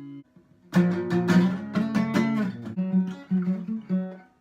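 Acoustic guitar strummed: after a brief pause, a run of chords begins about a second in, with a short break near the end.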